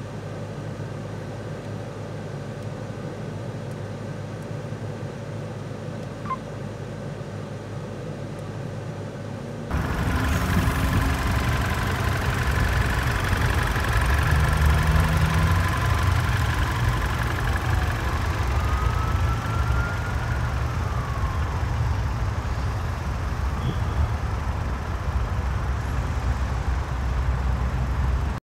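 Mercedes-Benz C 300's 2.0-litre turbocharged inline-four running at a steady idle. It is first a faint hum heard inside the cabin, then, about ten seconds in, much louder from the open engine bay.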